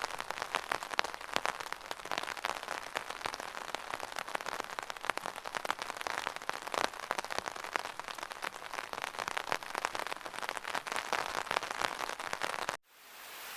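Rainwater running off a gutter in a dense, crackling patter of drips and splashes. Near the end it cuts off suddenly, and a smoother, even rush of water fades in.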